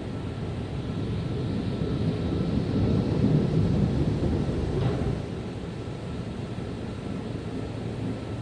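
Automatic car wash machinery giving a steady low rumble that swells for a few seconds and then eases, with a faint steady whine above it.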